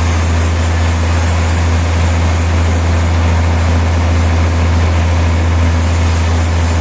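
Sawmill machinery running steadily: a loud, even drone with a deep constant hum.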